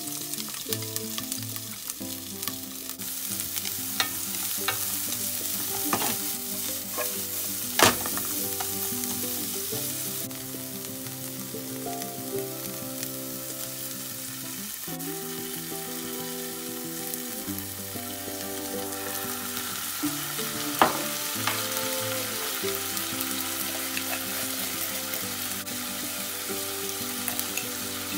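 Green peppers and red wiener sausage pieces sizzling in hot oil in a nonstick frying pan as they are stir-fried, a steady hiss with a few sharp knocks of the utensil against the pan.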